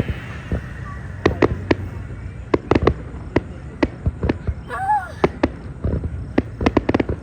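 Fireworks display going off: a run of sharp bangs at irregular intervals, several in quick clusters, over a low background rumble, with a brief voice-like call about five seconds in.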